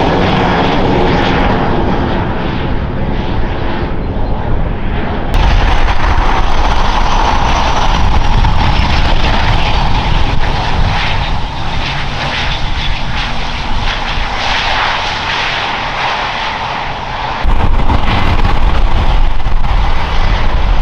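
Jet airliner engines roaring as a plane passes close by, the engine tone falling in pitch early on. The roar jumps abruptly louder about five seconds in and again near the end, where the footage is cut between shots.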